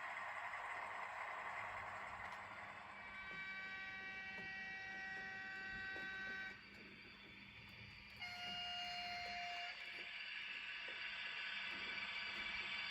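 Horn of a sound-equipped N-gauge model diesel locomotive, sounded twice. The first blast lasts about three and a half seconds. A shorter, lower one follows about a second and a half later. A steady hiss of running noise lies underneath.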